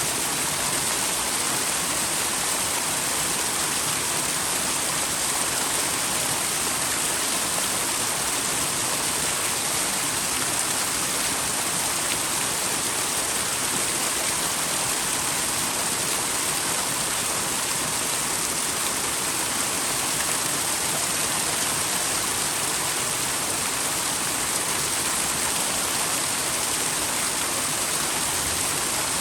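A small twin waterfall in a mountain stream, water pouring and splashing with a steady, even rush.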